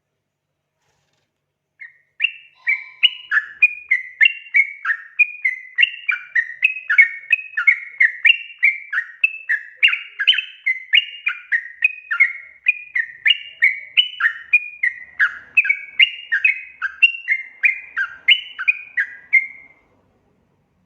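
Yellow-vented bulbul (trucukan) singing a long, unbroken run of quick bubbly whistled notes, about two to three a second, jumping up and down in pitch. It starts about two seconds in and stops shortly before the end.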